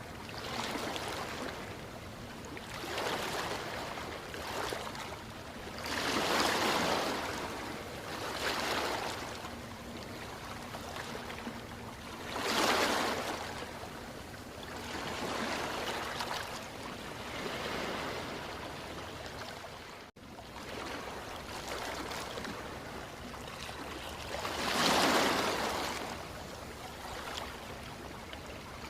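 Ocean surf: waves breaking and washing up the shore in a steady noisy wash that swells every few seconds, the biggest surges near a quarter, nearly halfway and near the end. There is a split-second dip in the sound about two-thirds of the way through.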